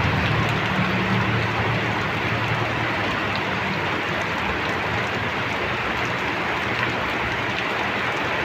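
Steady rain falling, an even hiss throughout. Under it, a low vehicle engine hum fades away over the first three seconds or so.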